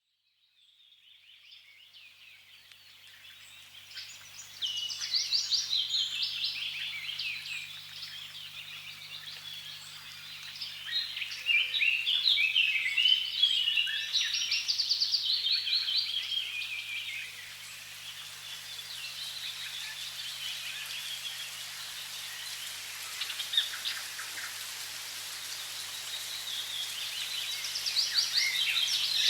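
Many songbirds singing and chirping in busy bursts over a steady hiss of running water, fading in from silence over the first few seconds.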